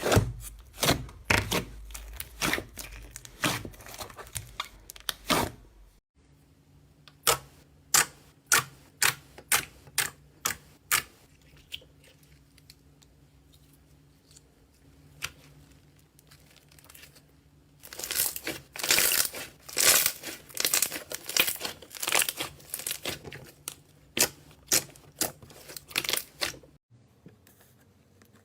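Slime being pressed, poked and stretched by hand, giving off sharp crackling pops and clicks, thick and fast at first, then spaced out about two a second, then thick and fast again. The sound cuts off abruptly twice as one clip gives way to the next.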